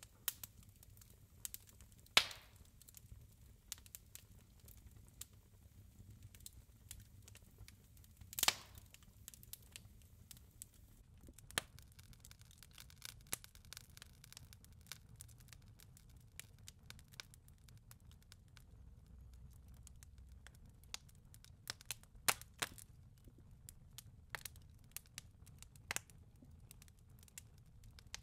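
Wood fire crackling in a fireplace: faint scattered crackles and snaps, with two louder pops about two seconds in and about eight seconds in.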